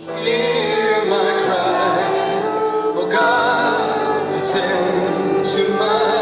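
Music: voices singing with vibrato over a steady instrumental accompaniment, coming in loudly just after the start.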